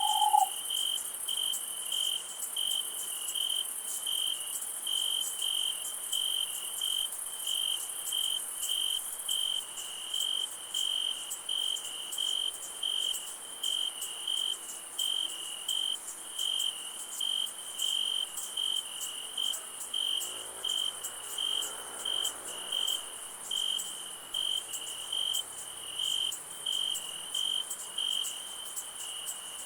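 Crickets chirping at night: one pulsing steadily about twice a second over a continuous high-pitched insect trill. A short lower tone, the loudest sound here, cuts off right at the start.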